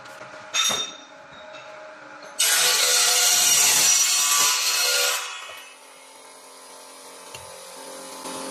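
Power iron-cutting machine at work: a short metallic knock about half a second in, then a loud harsh cut lasting about three seconds, after which the machine runs on with a steady hum that grows louder near the end.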